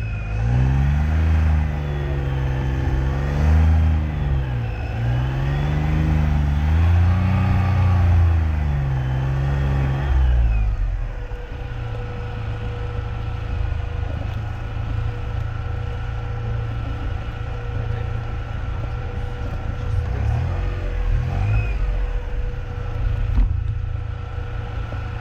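Classic car engine rising and falling in pitch as it repeatedly accelerates and eases off. About ten seconds in it drops to a steady low drone.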